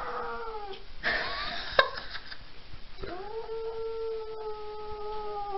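Tabby cat yowling in protest while its claws are clipped: a short yowl at the start, then one long drawn-out yowl of about three seconds that sags in pitch as it ends. Between the two, a brief rustle with a sharp click.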